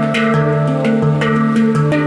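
Handpan being played: a quick run of struck, ringing steel notes, about four or five a second, over a sustained low note.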